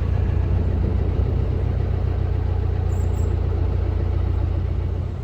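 Narrowboat's diesel engine running steadily while the boat cruises, an even low hum.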